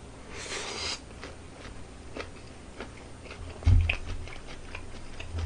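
Close-miked biting and chewing of a mouthful of cold sliced pork hock salad, with a short noisy burst about half a second in and small clicks of chopsticks and tableware. A low thump about three and a half seconds in is the loudest sound.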